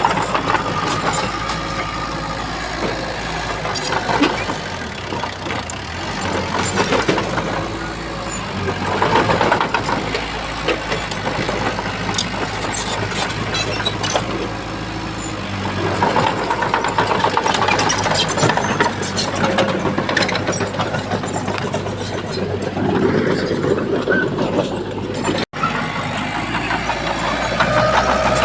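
Shantui bulldozer's diesel engine running, its level rising and falling every few seconds as it works, with scattered clanks and rattles.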